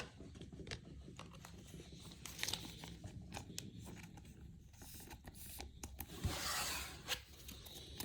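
Trading cards being handled and slid against each other: faint small clicks and rustles, with a longer rustle about six and a half seconds in.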